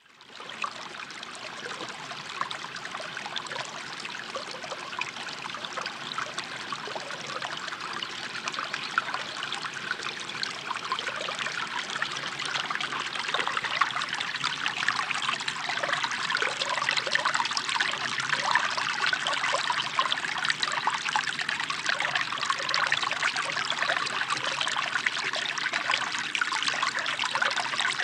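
Running water trickling and gurgling steadily. It starts out of silence and grows slowly louder.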